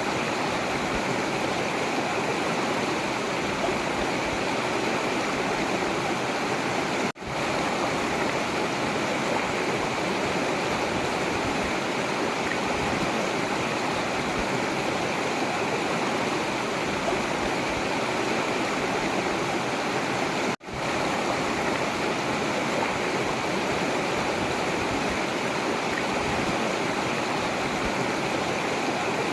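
Forest river flowing: a steady, even rush of water that cuts out for an instant twice.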